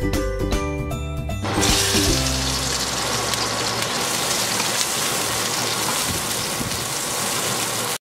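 Background music that fades out about a second and a half in, giving way to sliced red onions sizzling steadily in hot pork fat in a wok as they are sautéed. The sizzle cuts off suddenly at the end.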